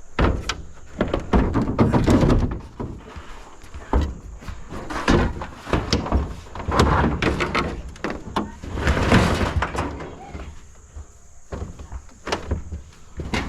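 Scrap metal being loaded into a pickup truck bed: a run of irregular thuds and clanks as pieces are dropped and shoved in, with a longer clattering scrape about nine seconds in.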